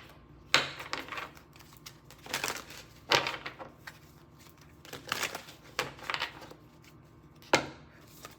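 A deck of tarot cards being shuffled by hand: scattered riffling and rustling, with three sharp slaps of the cards, about half a second in, about three seconds in and near the end.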